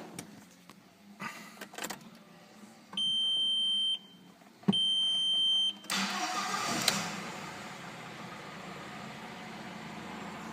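A few clicks, then two electronic beeps of about a second each. About six seconds in, the Audi 1.8-litre turbo four-cylinder cranks and starts, flares briefly, then settles into a steady idle.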